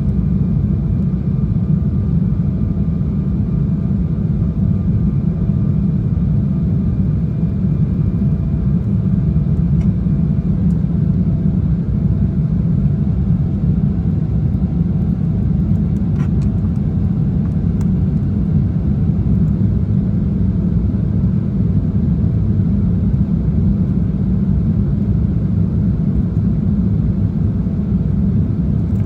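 Airliner cabin noise in flight: a steady low rumble of engines and airflow, with faint steady whining tones above it.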